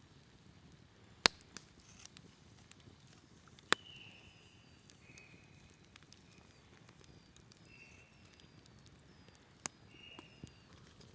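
Campfire wood crackling, with three sharp pops about one, four and ten seconds in and smaller ticks between. Several short, high, thin tones sound in the middle of it.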